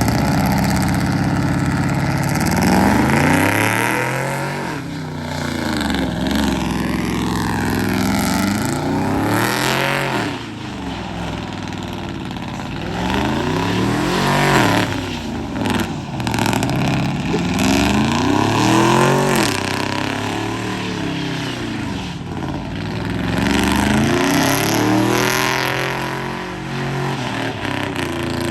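Car engine revved hard and let fall again and again, its pitch climbing and dropping every few seconds.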